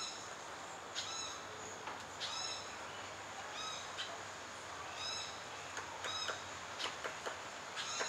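A bird's short call, repeated about once a second for the first few seconds, over a steady high tone from the forest. A few sharp taps follow in the second half.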